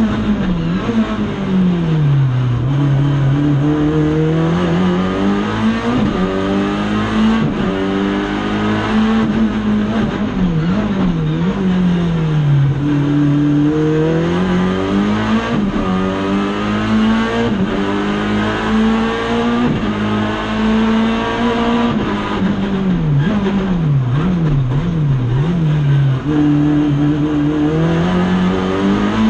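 Race car engine heard from inside the cockpit, revving up hard under acceleration and falling away as it slows for corners. Quick flurries of up-and-down revs come about a third of the way in and again about four-fifths of the way through.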